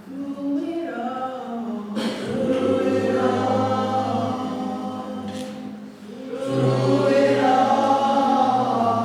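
A group of voices singing a slow worship song in long held notes, with new phrases starting about two seconds in and again about six and a half seconds in.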